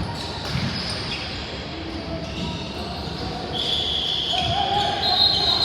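Basketball bouncing on a gym floor during a game, with crowd voices and other sounds echoing through the hall.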